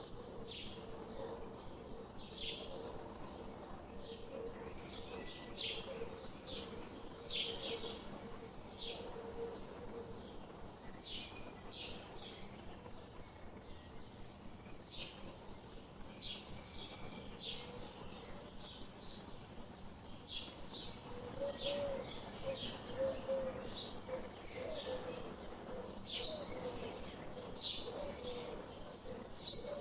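Birds chirping: many short, sharp calls, repeated irregularly throughout, over a low steady hum.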